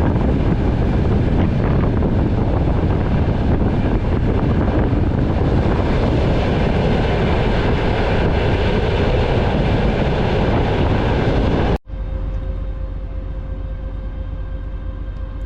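A moving passenger train heard from aboard: a steady loud rumble of wheels on rails. About twelve seconds in, it cuts off abruptly to a quieter, steady hum with a faint held tone.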